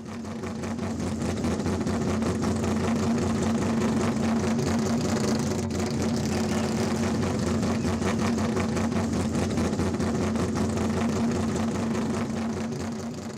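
Car engine running at steady revs, with a broad rushing noise over it; it fades in at the start and fades out near the end.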